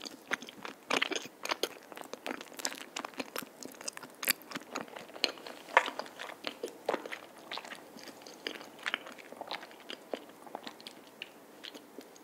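Close-miked chewing of a soft vanilla cream-filled rice cake (tteok): many short mouth clicks and smacks, coming thick at first and thinning out toward the end as the mouthful is finished.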